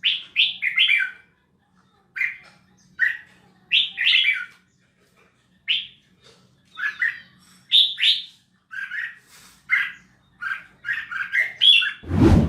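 Red-whiskered bulbul singing short chirpy phrases about once a second, with a loud knock near the end.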